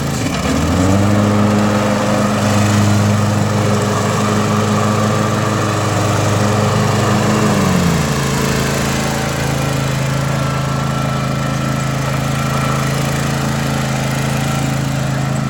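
John Deere Z425 EZtrak zero-turn mower's engine running. Its speed rises within the first second, holds steady, then drops to a lower, steady speed about eight seconds in.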